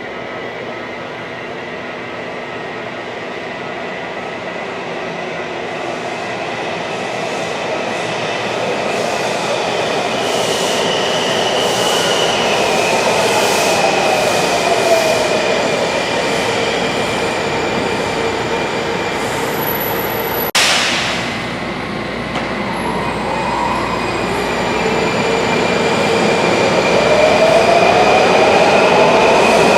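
Washington Metrorail train running through a station, steel wheels rumbling on the rails. The motor whine drops in pitch partway through, then rises again near the end. There is one sharp click about two-thirds of the way in.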